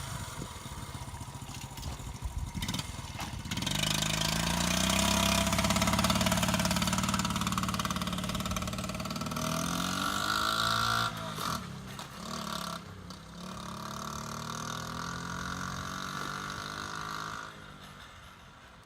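A 1983 Honda Z50R's 49cc four-stroke single-cylinder engine, cold and on choke, idles and then revs up about three and a half seconds in. The bike is ridden, its engine note rising and falling, and the sound fades away near the end.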